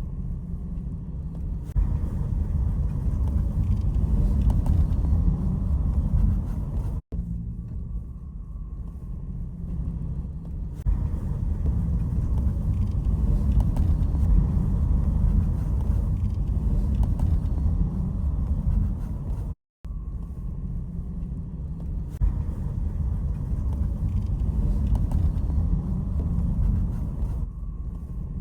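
Steady low rumble of a car driving, road and engine noise, cutting out briefly twice.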